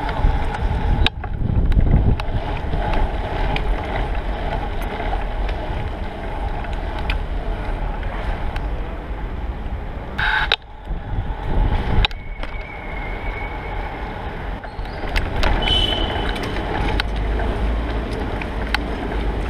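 Wind buffeting the microphone and road noise while riding through city streets: a steady, loud rush with abrupt breaks a second in and around the middle.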